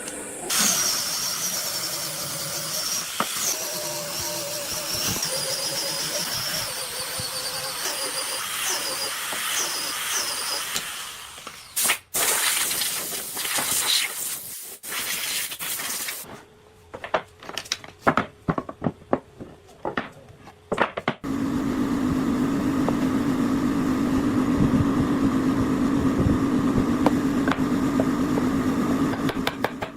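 Woodworking machinery in separate shots. First a machine runs with a steady whine, then comes a run of sharp knocks, and about two-thirds of the way in a motor starts a steady low hum.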